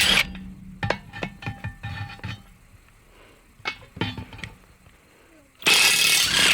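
Sharp metallic clinks and knocks of tools against a wheel rim, with two short loud bursts of hissing, like a blast of compressed air: one at the start and one near the end.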